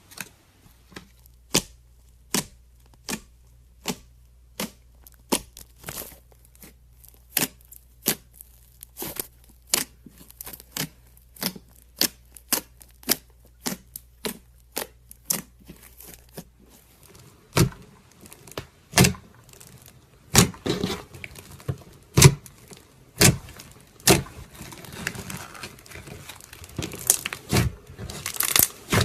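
Slime being played with by hand, giving a string of sharp sticky clicks and pops about one or two a second. From about two-thirds of the way through the pops get louder and come thicker, mixed with a crackling.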